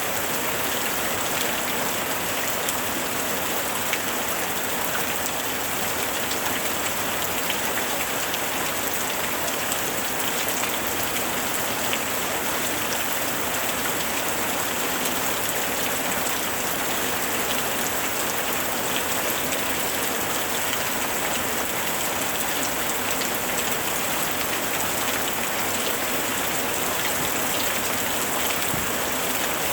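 Steady rain falling: an even, unbroken hiss sprinkled with many small drop hits.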